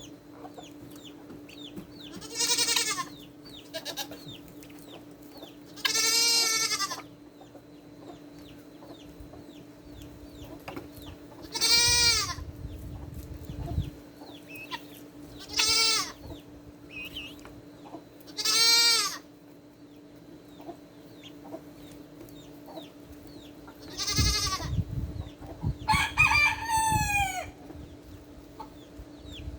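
Farmyard poultry: hens clucking and small chirps, broken by seven loud calls of about a second each, the last one falling in pitch. A steady low hum runs underneath.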